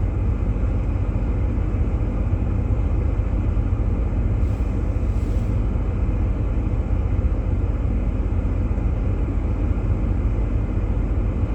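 Steady low rumble of a Jeep Grand Cherokee running, heard from inside the cabin.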